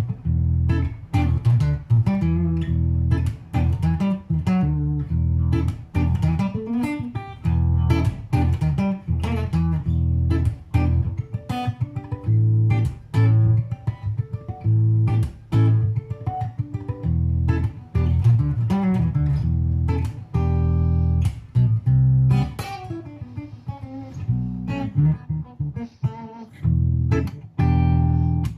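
Solo fingerstyle guitar instrumental: a Godin Multiac Jazz guitar played through a Boss OC-20G Poly Octave pedal that adds an octave-down bass to the two low strings. It runs through a Vypyr VIP-2 amp in acoustic mode. Quick plucked melody notes ride over a deep, sustained bass line.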